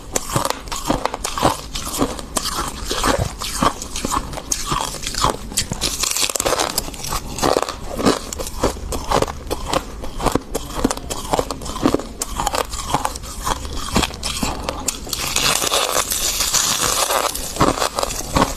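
Close-up biting and chewing of crisp freezer frost: a quick run of sharp crunches, a few each second, turning to a denser crackling chew near the end.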